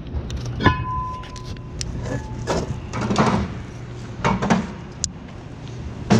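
Cast iron brake rotors clanking as they are tossed one after another into a scrap container: a series of irregular metal clanks, the first ringing briefly. A low steady hum runs underneath.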